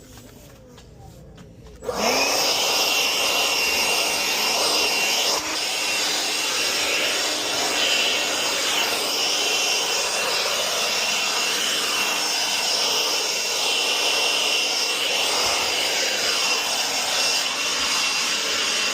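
A small electric motor spins up about two seconds in and then runs steadily under a loud rush of air.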